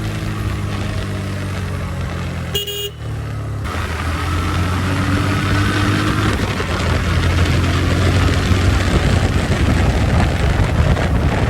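Motorcycle engine running steadily under way, with a short horn beep about two and a half seconds in. The engine gets louder over the second half.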